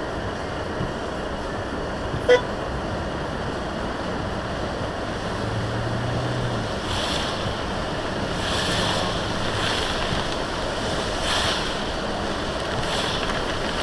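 Steady rain and road noise heard from inside a vehicle on a rainy drive, with a single sharp click about two seconds in and a brief low hum near the middle. In the second half, hissing swishes come back about every second and a half.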